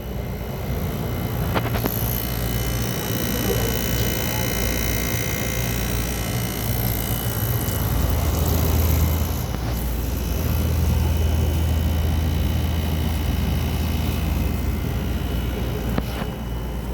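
Midea 5,000 BTU window air conditioner running: a steady low hum with a few steady higher tones over it.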